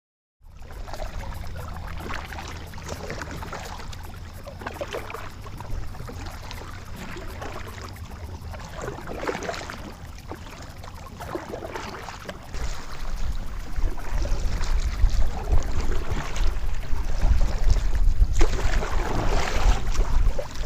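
Kayak paddle strokes splashing in the water, roughly one every second or so. Wind rumbles on the microphone throughout and gets heavier about halfway through.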